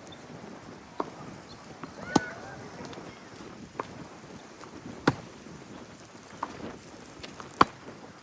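Tennis rally: a racket strikes the ball sharply about every two and a half seconds, with softer ball bounces between the strokes. There is a short squeak near the second stroke.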